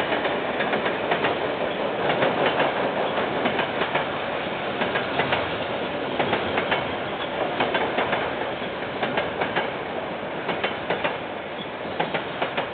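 KiwiRail freight train's container wagons rolling past: a steady rumble with the wheels clicking over the rail joints in quick pairs and groups, slowly easing off toward the end.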